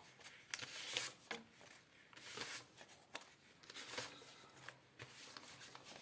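Paper rustling in irregular short flicks and rubs, as of a stack of banknotes being handled and thumbed through.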